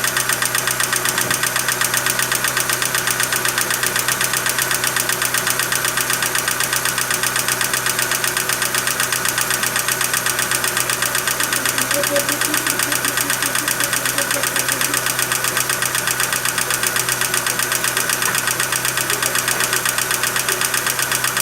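Chevrolet Meriva's engine running steadily at idle with a fast, even tapping that repeats throughout: the strange engine noise the owner is showing.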